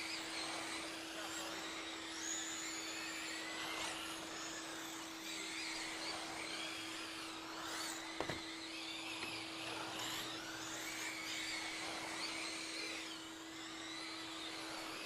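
Several radio-controlled short-course trucks' electric motors whining, the pitches rising and falling as the trucks speed up and slow around the track, over a steady hum. A sharp click about eight seconds in.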